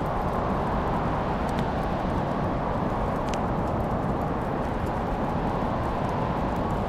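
Wood fire burning in a fireplace: a steady low rumble with a few sharp crackling pops, two of them standing out clearly.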